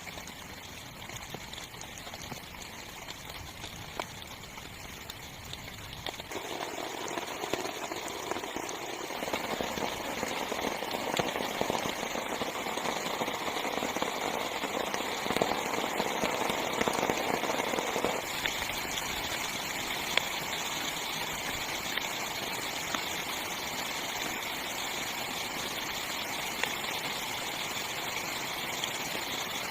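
Heavy rain falling on a small tent's fabric, a steady hiss with scattered sharp drop ticks. The downpour grows louder about six seconds in and eases back a little after about eighteen seconds.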